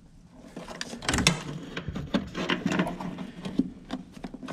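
Irregular metallic clunks, scrapes and rattles, starting about a second in, as an old furnace inducer draft motor is worked loose and wrestled out of the furnace cabinet.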